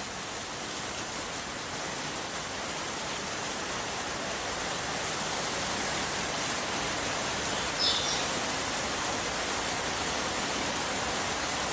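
Steady rain hiss, with a short high-pitched chirp about eight seconds in.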